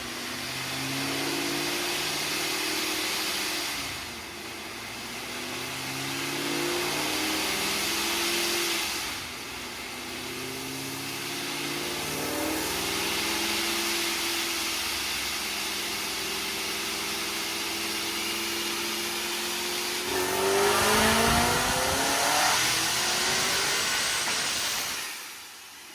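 Car engine pulling hard through the gears: its note climbs and drops back at each upshift, a few times in the first half, then holds steady for several seconds before one more loud climb and the driver lifting off near the end, with road and wind noise throughout.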